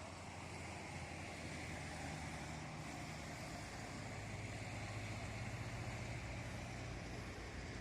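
A motor vehicle's engine running with a steady low hum, growing louder over the first few seconds and then holding.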